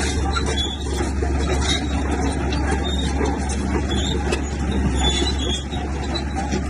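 Bulldozer's diesel engine running steadily, with a few scattered metallic clanks and ticks.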